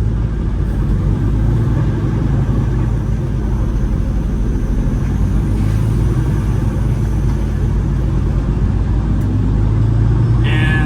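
Semi truck's diesel engine running steadily on the road, a deep even drone with road noise.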